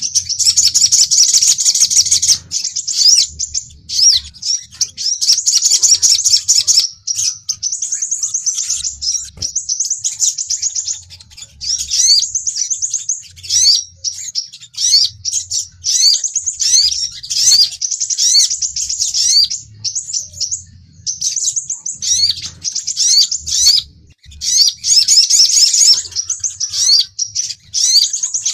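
Sunbirds twittering: rapid high-pitched chirps and quick rising trills in bursts of a second or two, with short gaps between. These are the excited calls of sogon and crimson sunbirds used as a lure to draw in and provoke rival birds.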